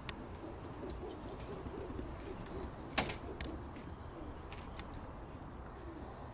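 Racing pigeons cooing, a low wavering murmur, with one sharp click about three seconds in and a few fainter ticks after it.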